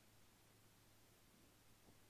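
Near silence: faint hiss with a steady low hum.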